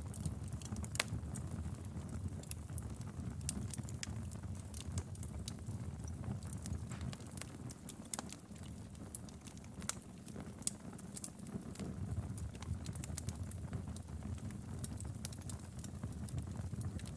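Wood fire crackling steadily: frequent sharp pops and snaps over a low, constant rumble of flames.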